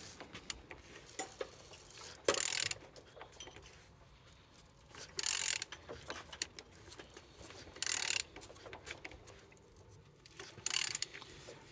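A Nissan QG15DE 1.5-litre four-cylinder engine being turned over by hand: four short bursts of noise about three seconds apart, with faint mechanical clicks between them. The engine turns freely, the sign that it is not seized.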